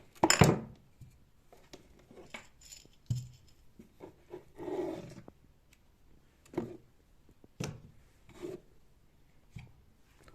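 Kitchen items being handled and set down: a series of separate knocks and clinks, the loudest right at the start, with a longer rubbing sound about five seconds in.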